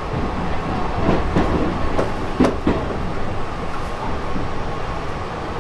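Hankyu Railway train heard from inside the carriage, running slowly with a steady rumble of wheels on rail. Several sharp clacks in the first half as the wheels cross rail joints and points.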